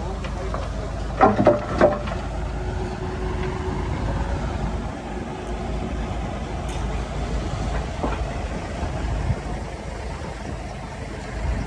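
Heavy diesel earthmoving machinery running: a steady low rumble, with a few sharp metallic clanks just over a second in.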